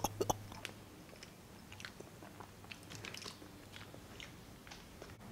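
A child chewing a mouthful of chili cheese fries, heard as faint, scattered mouth clicks.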